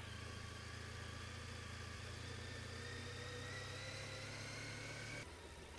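Honda ST1300 Pan European's V4 engine running at low speed, its whine rising slowly in pitch, then the sound changes and drops suddenly near the end.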